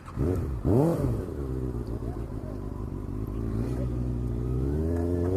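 Motorcycle engine revved twice in quick succession, then pulling steadily with its pitch slowly rising as it accelerates.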